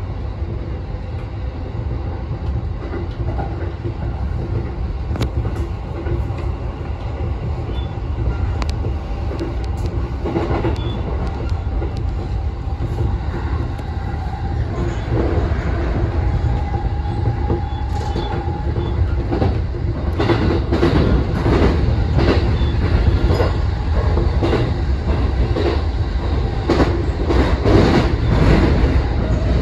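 Keihin-Tohoku Line E233-series electric commuter train running on the rails, heard from the driver's cab: a steady low rumble of wheels on track. In the second half it gets louder, with frequent sharp clacks as the train runs through a tunnel.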